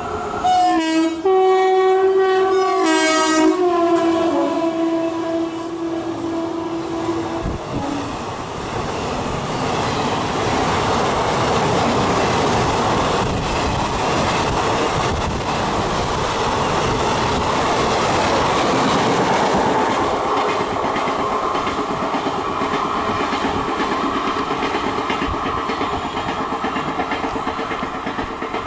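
Passenger train hauled by a WAP-5 electric locomotive sounding its horn, one long blast of about seven seconds that cuts off sharply, followed by the coaches rushing past with a steady rumble and wheels clattering over the rail joints.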